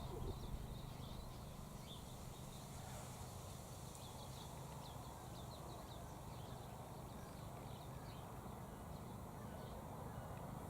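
Faint background birdsong: many short, high chirps scattered throughout, over a steady low hum.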